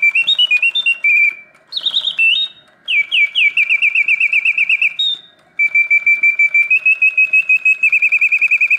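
1967 Reuge singing bird cage's bellows-and-whistle mechanism playing its birdsong: warbled gliding phrases and rapid even trills, broken by short pauses between phrases.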